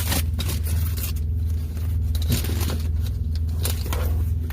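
Semi-truck diesel engine idling steadily in the background, with repeated brief scraping and rustling as the cab's privacy curtains are pulled closed along their track.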